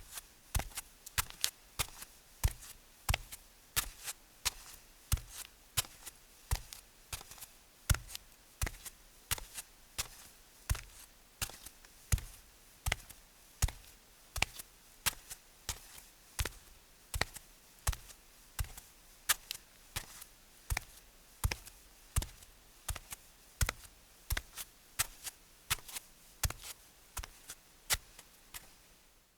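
Barefoot footsteps on concrete: a man walking at a steady pace, each step a short soft slap, about two steps a second.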